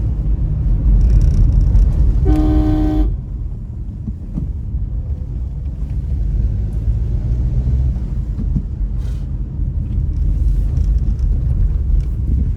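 A vehicle horn sounds once for just under a second, about two seconds in, over the steady low rumble of a moving vehicle.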